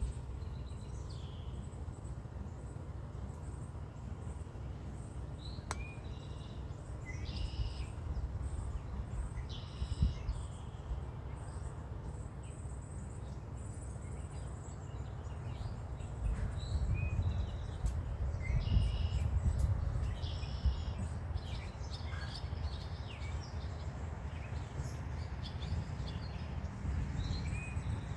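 Songbirds chirping in short, scattered calls over a steady low rumble that swells for a few seconds past the middle.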